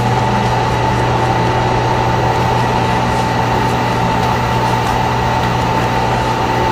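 Microwave oven running: a steady low hum with a fan whine held at one pitch.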